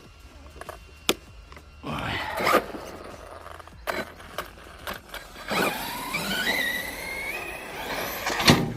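RC stunt truck's brushless electric motor whining as it is throttled, its pitch climbing in long revs, with tyres scrabbling on concrete. Sharp knocks and clicks of the truck's chassis and wheels striking the ground, the loudest near the end.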